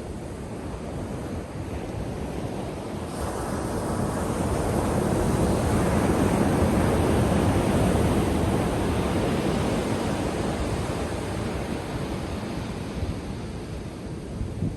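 Ocean surf: a wave breaks and washes up the beach, swelling to a peak partway through and slowly fading as it runs out, with some wind on the microphone.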